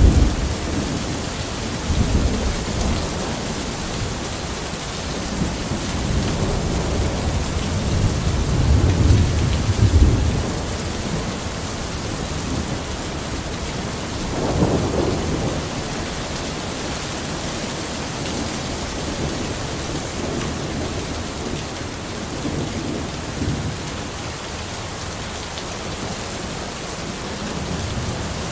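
Steady rain falling, with low rumbles of thunder rolling through the first ten seconds, a stronger one about halfway through, and a fainter one later on.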